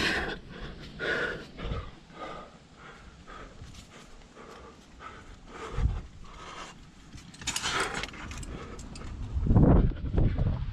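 A rock climber moving, with climbing hardware jangling and scraping against rock in irregular short bursts. The loudest knocks and rubbing come near the end.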